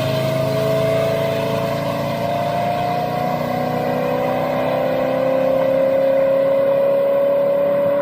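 Car engine running steadily, with a whine that climbs slowly in pitch as the vehicle gathers speed.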